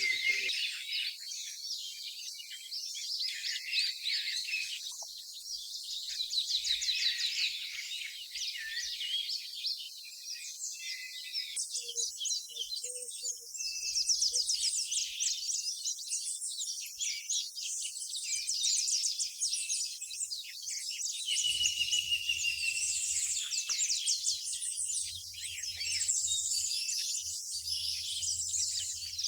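Small birds chirping and twittering, many short high calls and quick trills overlapping throughout. A faint steady low hum joins about two-thirds of the way through.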